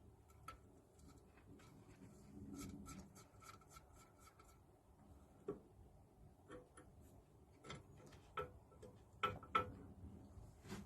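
Faint, scattered light clicks and rubbing of small metal parts being handled while the float assembly is taken off a Lister D engine.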